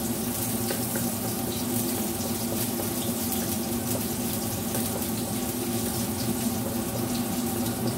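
Strips of dried salted squid sizzling steadily in sesame oil in a wok, with a wooden spatula stirring them, over a steady low hum.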